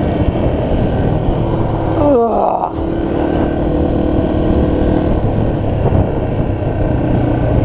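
Motorcycle engine running under way with wind rushing past the microphone; about two seconds in the revs drop sharply and briefly cut, as in a gear change, then the engine settles back to a steady pitch.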